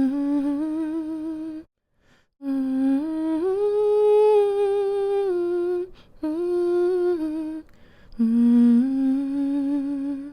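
A woman humming a slow, soothing lullaby in four short phrases with brief pauses for breath between them; the third phrase rises and is held on a higher note before falling back.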